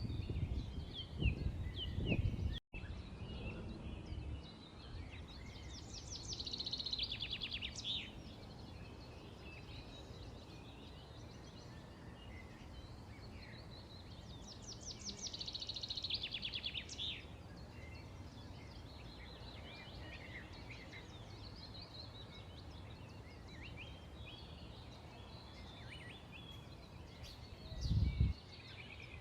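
Several small birds chirping, with two louder songs of rapid trilled notes, about six seconds in and again around fifteen seconds. A few low bumps or rumbles come near the start and near the end.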